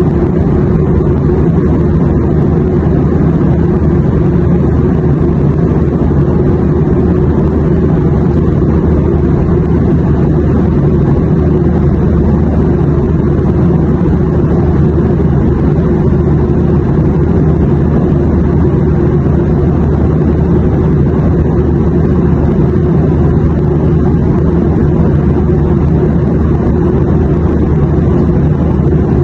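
Airplane engine drone: a steady, unchanging low rumble with no rise or fall in pitch.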